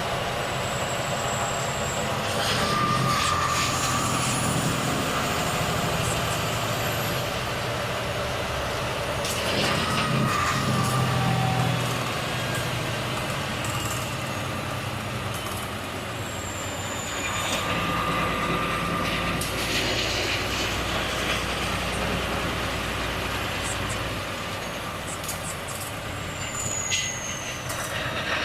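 Volvo FH truck's diesel engine running at low speed, with the air brakes hissing four times and short high squeals alongside.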